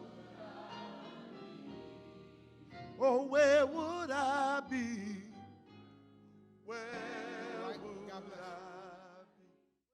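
Church gospel singing with strong vibrato over a soft sustained accompaniment, swelling loud about three seconds in and again near seven seconds, then fading out just before the end.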